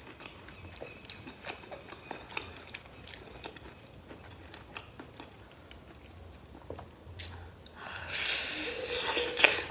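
Close-miked chewing of a cheesy pizza slice topped with pork loin and pineapple: soft wet mouth clicks and smacks. Near the end comes a louder bite into the slice, followed by denser crunchy chewing.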